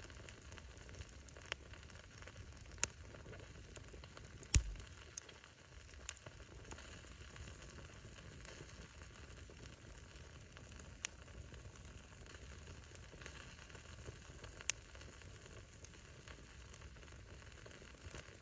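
Wood bonfire burning: a steady hiss and crackle of burning firewood, broken by a handful of sharp pops as the wood bursts. The loudest pop comes about four and a half seconds in, with a low thump.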